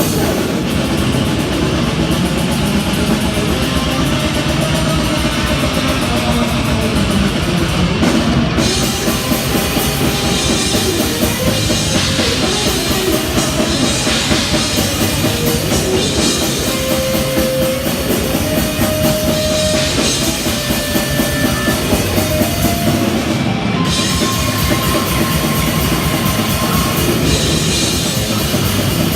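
Death metal band playing live: fast, loud drumming on a drum kit under distorted electric guitars, dense and unbroken, with a few held guitar notes in the second half.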